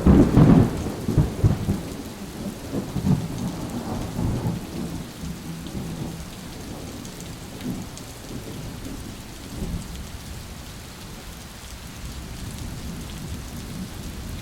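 Thunderstorm: a loud rumble of thunder in the first couple of seconds, rolling on and fading over steady rain.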